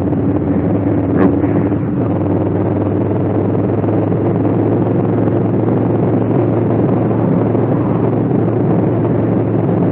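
2019 Honda Africa Twin's parallel-twin engine running at a steady cruise: an even, unchanging drone over a haze of wind and road noise.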